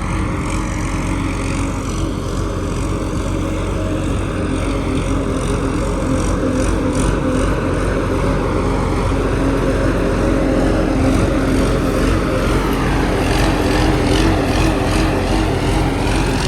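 An engine running steadily, getting slightly louder in the second half.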